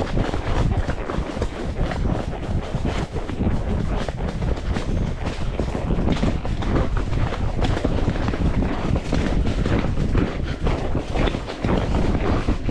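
Horse's hooves clopping steadily along a forest trail, with wind buffeting the microphone.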